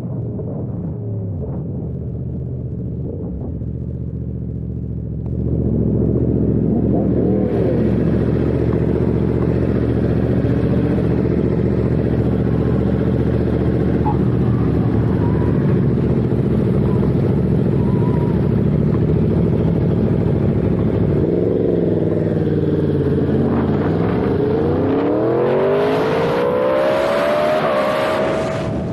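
Yamaha R1 sportbike's inline-four engine running under way, getting louder a few seconds in. Its pitch dips and climbs twice in the second half as the rider backs off and accelerates, with wind hiss over it.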